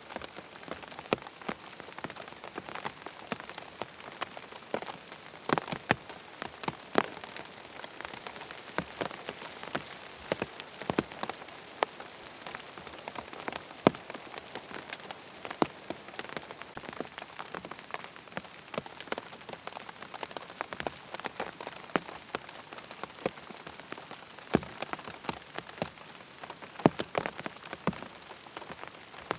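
Steady rain falling, with frequent sharp ticks and pops scattered irregularly through it.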